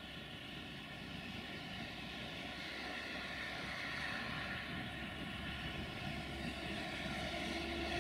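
Electric train running on the line: a steady drone with a constant hum, growing slowly louder, with further hum tones coming in near the end.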